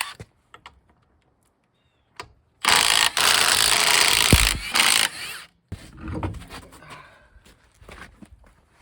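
A power tool runs in one loud burst of about three seconds, then briefly again about a second later. A few light metal clicks come before it.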